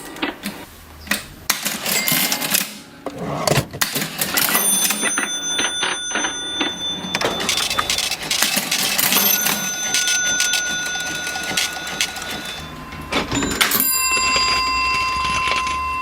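Vintage mechanical cash register being worked: rapid clicking and clattering of its keys and mechanism, with its bell ringing three times, about every four to five seconds.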